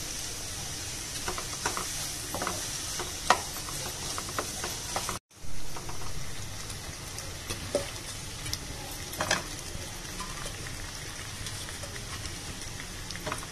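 Onions, moringa drumstick pieces and green chillies sizzling in hot oil in a nonstick pan, with the clicks and scrapes of a wooden spatula stirring. The sound drops out briefly about five seconds in.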